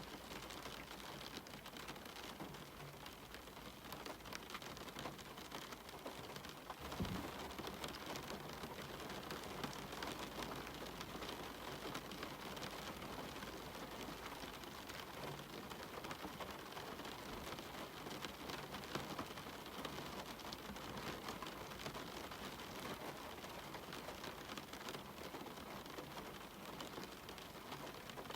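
Steady rain falling, with many small close drop hits ticking through it. A brief low thump comes about seven seconds in.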